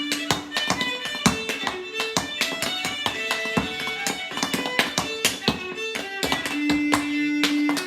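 Solo fiddle playing a lively traditional fiddle tune, held notes alternating with quick runs, with frequent sharp taps among the notes.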